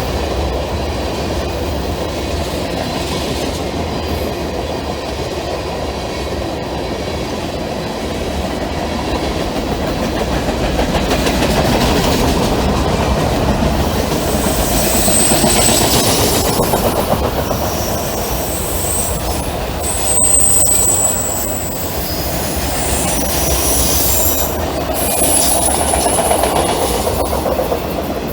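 Freight train cars rolling fast around a curved temporary shoo-fly track, wheels clacking steadily over the rails. From about halfway through there are several brief high-pitched wheel squeals, typical of flanges rubbing on the curve.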